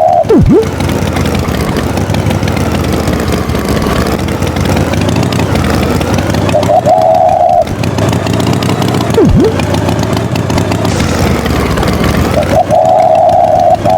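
Tractor engine sound effect running loudly and steadily, with a held tone blaring for about a second twice and a quick sharp pitch swoop twice.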